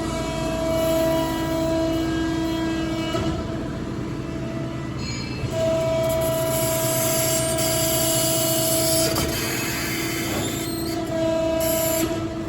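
Hydraulic system of a Cincinnati 175CBII CNC press brake running through its cycles: a steady pump hum with a whining tone that drops out and comes back several times as the machine works.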